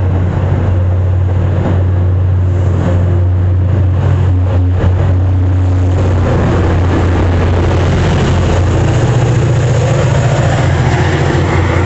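A train running through the station close by: a loud, steady low rumble over dense rail noise, the low note shifting upward about two thirds of the way through.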